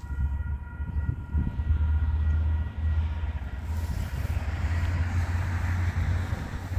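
Train approaching a level crossing: a steady low engine rumble, with wheel-on-rail noise growing louder from about four seconds in. The crossing's warning alarm sounds as steady tones that fade out in the first few seconds.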